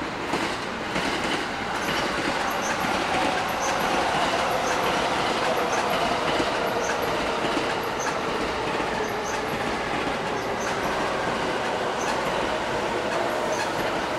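Train noise on the tracks: wheels clacking and squealing, swelling about two seconds in and then holding steady, from a train moving on another track while the train at the platform stands still.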